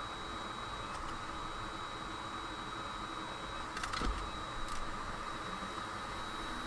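Steady fan-like hiss of bench equipment on a microsoldering workbench, with a faint high whine, broken by a few small clicks of tools on the board about four seconds in and again a little later.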